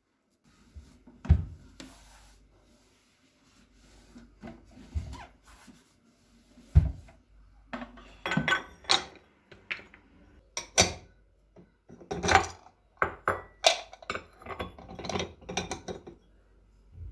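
Kitchen items being handled during cleaning: scattered knocks and clatters with rubbing between them. There are two heavy thuds, about a second in and near seven seconds, then a dense run of sharp clinks and taps in the second half.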